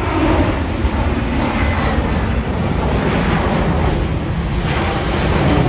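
Jet airliner engine noise from a plane taking off and climbing away: a loud, steady rumble with a rushing hiss.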